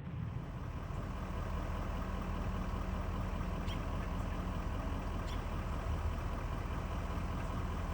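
Steady low drone of a vehicle's engine and road noise, with two faint ticks in the middle.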